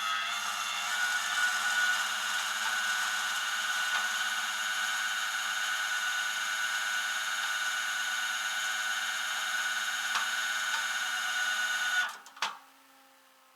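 A small high-speed motor whining steadily, cutting off about twelve seconds in, followed by a single click.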